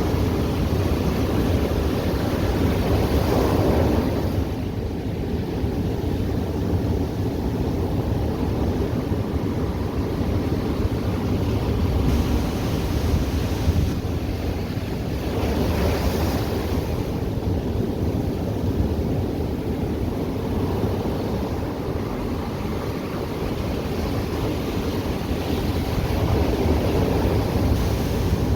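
Ocean surf washing onto the beach in a steady rush, with waves surging louder about three seconds in and again about sixteen seconds in, over a low rumble of wind on the microphone.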